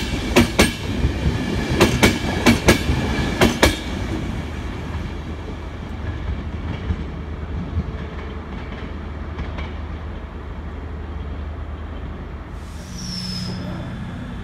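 Express passenger train's wheels clacking in quick pairs over rail joints as its coaches pass close by. The clatter stops about four seconds in, and the rumble fades as the train draws away. Near the end a steady low drone and a brief high squeal come in.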